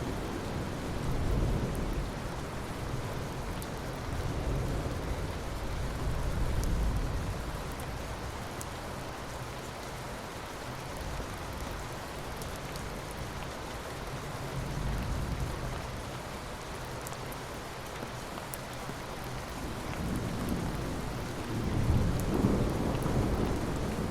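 Steady heavy rain falling, with thunder rumbling low in the background in slow swells that rise and fade, the loudest near the start and again near the end.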